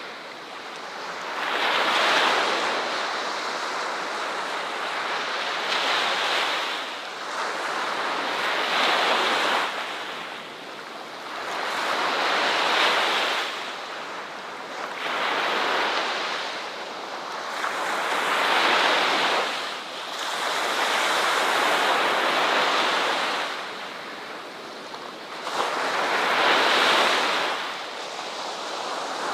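Ocean waves breaking on a shore, each wash swelling and falling away every three to four seconds in a steady, unhurried rhythm.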